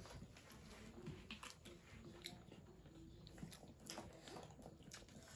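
Faint eating sounds: soft chewing and small mouth and utensil clicks, scattered irregularly over low room noise.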